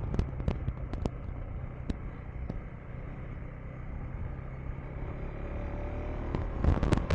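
Single-cylinder engine of a KTM 390 Enduro R dirt bike running steadily as it is ridden over a sandy dirt road, with a rushing haze of wind and road noise. Scattered sharp knocks come in the first two seconds, and a quick cluster of them comes near the end.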